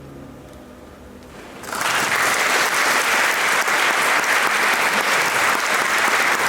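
The last piano chord fades away, then an audience bursts into applause about a second and a half in, clapping steadily and loudly.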